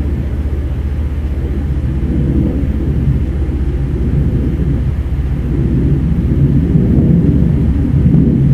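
Steady low engine rumble with a constant deep hum, growing slightly louder toward the end.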